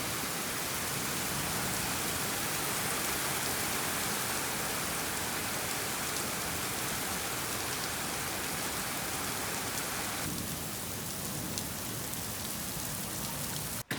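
Heavy sudden downpour: rain falling steadily, a dense even hiss with scattered drop ticks, cutting off abruptly near the end.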